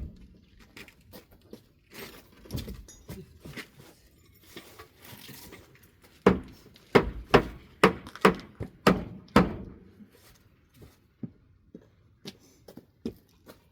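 Wooden knocks and clatter of pallet boards being handled, then a run of about eight hammer blows on wood, a few per second, beginning about six seconds in.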